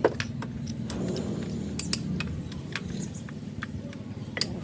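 Repeated sharp metallic clinks and taps of tools on engine parts, over a steady low mechanical hum.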